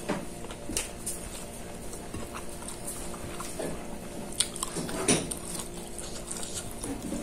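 A person eating by hand: chewing and mouth sounds with a few sharp clicks, over a steady low hum.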